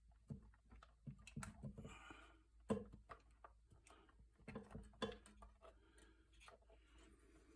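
Faint, scattered clicks and taps of hand work on small engine parts as a fuel hose is worked onto a carburettor fitting, with one sharper knock about a third of the way in.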